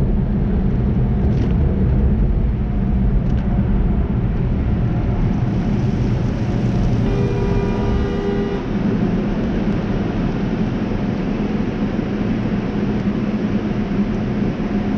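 Steady rumble of a tunnel car wash working around a car, with a brief whine that starts about seven seconds in and stops a little over a second later.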